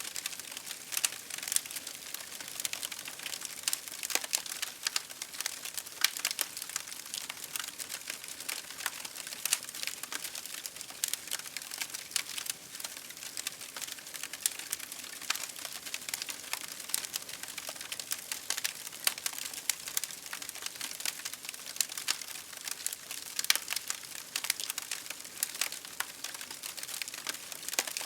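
Campfire crackling: burning wood giving a dense, irregular run of small sharp pops and snaps, with a louder snap every few seconds.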